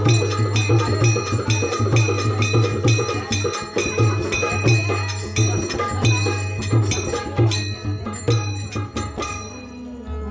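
Bhajan accompaniment without singing: small hand cymbals struck in a fast, even beat, about four strokes a second, over low drum strokes. The cymbals stop near the end.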